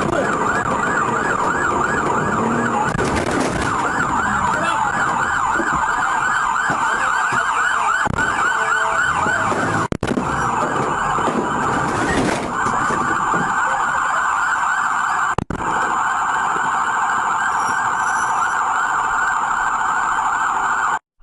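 Police car siren on a fast, repeating up-and-down yelp, loud and continuous, with two brief dropouts about ten and fifteen seconds in.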